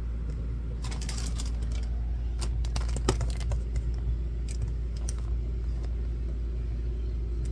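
Light clicks and clatter of hands working a kitchen stove and cookware, with a quick run of clicks about a second in and scattered single clicks after, over a steady low hum.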